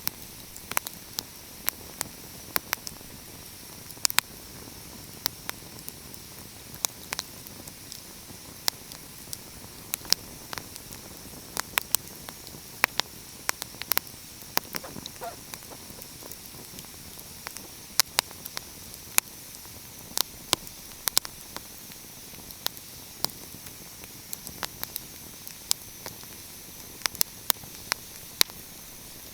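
Wood fire crackling: irregular sharp pops and snaps, two or three a second, over a steady soft hiss.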